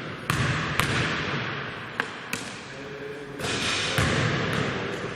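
Basketball bouncing on a hard gym floor: about six sharp, irregular bounces, each echoing in the hall.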